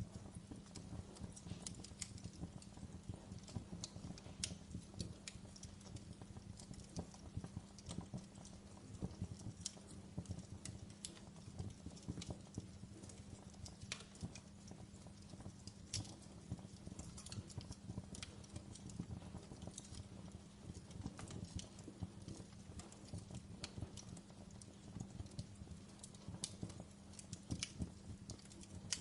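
Wood logs burning in a fireplace: a soft steady rumble of the flames with frequent irregular crackles and small pops from the wood.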